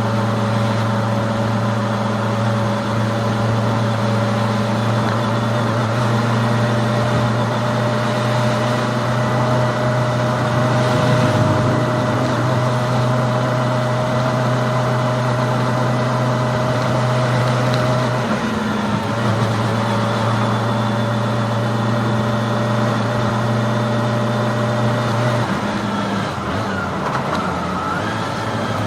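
Kawasaki Ninja ZX-25R's 250cc inline-four engine running at a steady pitch, with a brief change in pitch about 18 seconds in and again near the end.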